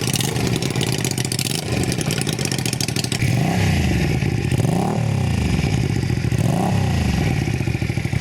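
Honda Shadow 125's small V-twin engine idling through its exhaust, then revved and let fall back about three times in the second half.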